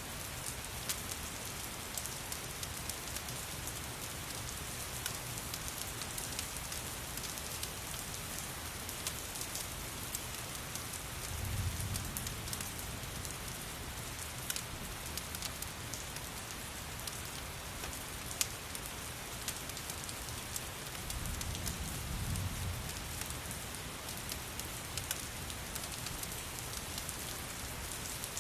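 Steady rain falling, mixed with the sharp clicks and pops of a crackling wood fire. Two soft low rumbles swell and fade, about a third of the way through and again past two-thirds.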